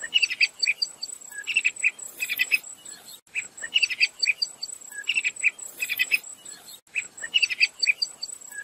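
Sharp-tailed tyrant calling: bursts of short, high chirping notes, the same phrase coming round about every three and a half seconds. A steady, high-pitched insect whine runs underneath.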